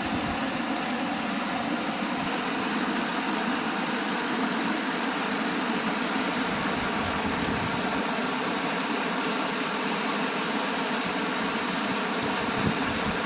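Steady rushing of water falling over a waterfall, an even hiss-like wash of sound that holds at one level throughout.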